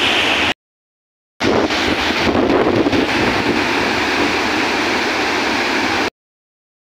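Steady rush of falling water from a waterfall. It breaks off into dead silence for about a second near the start, returns, and cuts to silence again near the end.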